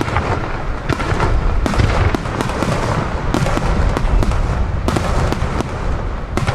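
Star mine fireworks barrage: a dense, continuous run of overlapping shell bursts and booms with crackle.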